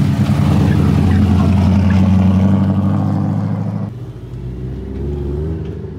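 Car engine running steadily at low revs, loud and close. About four seconds in it cuts off suddenly, leaving a quieter engine sound.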